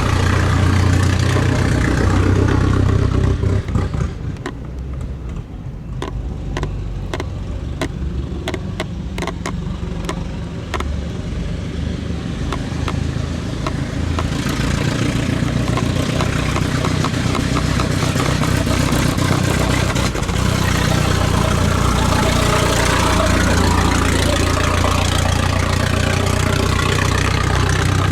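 A car engine running loud, settling to a quieter idle with a scatter of sharp clicks after about four seconds, then running louder again from about halfway through.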